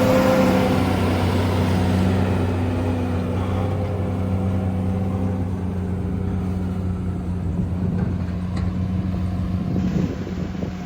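Heavy diesel engine running steadily at a constant note, slowly growing fainter.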